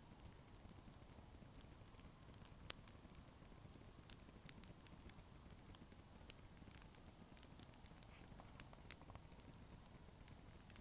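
Wood campfire crackling: scattered sharp snaps and pops at irregular intervals, over faint low background noise.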